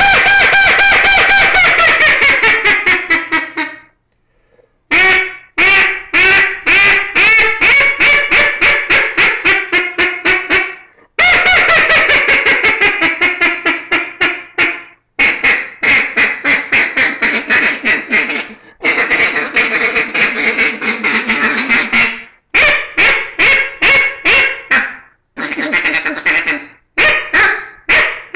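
Real Calls Original acrylic single-reed duck call blown through a run of duck calling: a long held note that drops in pitch, then strings of short, quick quacking notes with brief pauses between sequences.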